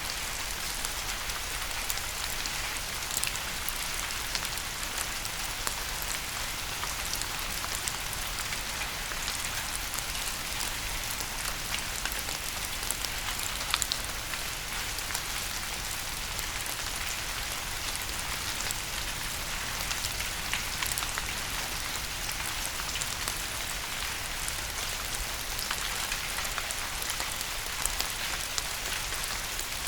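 Steady rain falling, an even hiss with many individual drops ticking on a hard surface.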